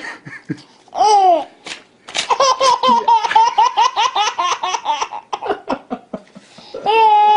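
Baby laughing hysterically: a squeal about a second in, then a fast run of breathy laughs that trails off, and another long high squeal near the end.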